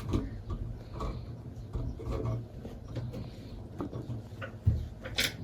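Irregular small mechanical clicks and knocks, something being handled or worked, over a steady low hum; a louder knock near the end.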